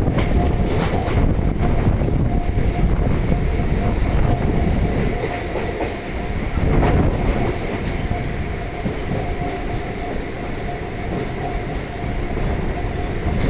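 Electric suburban EMU train running along the track, heard from inside the coach: a steady rumble of wheels and rails, with a faint steady whine joining it about six seconds in.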